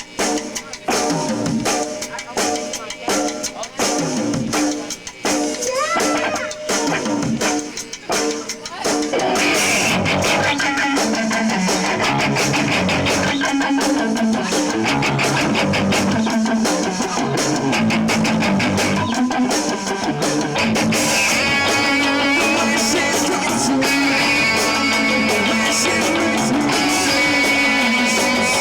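Live rock band playing, with guitar and drum kit. For the first nine seconds or so the guitar plays with sparse drum hits. Then the full band comes in and plays loud and steady.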